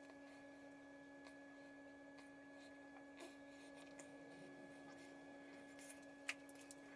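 Near silence: room tone with a faint steady hum, and a couple of faint ticks about three and six seconds in.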